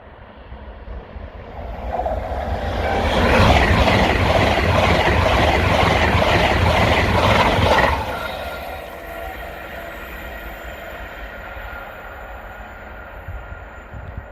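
High-speed passenger train passing close by on the main line. Its noise builds over about two seconds and stays loud for about five seconds with a rapid rattle of wheels on rail. It drops off sharply as the rear of the train passes, then fades away.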